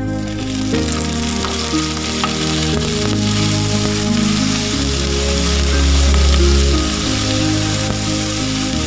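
Raw shrimp dropped into hot oil with sautéed garlic, sizzling loudly in the pan as they are stirred, with a few light clicks of the utensil against the pan. Background music plays underneath.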